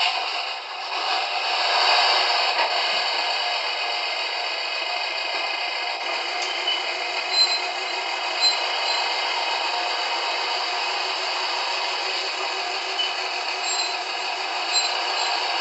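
MTH Bikini Car Wash model accessory playing its sound effects through its small built-in speaker: a steady, tinny hiss with no bass, like recorded wash spray.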